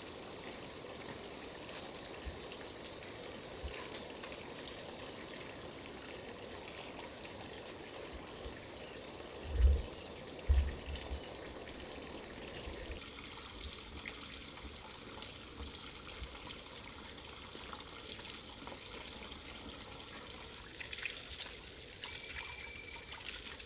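Steady trickle of running water, with a constant high-pitched insect drone over it. Two short low thumps come about ten seconds in.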